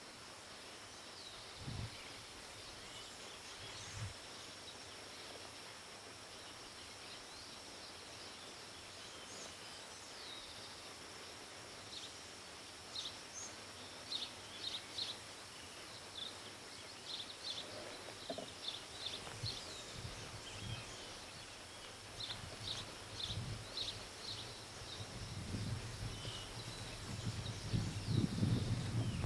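Outdoor ambience with a steady high insect drone and clusters of short, high bird chirps through the middle. A couple of soft low thumps come early, and low rumbling builds near the end.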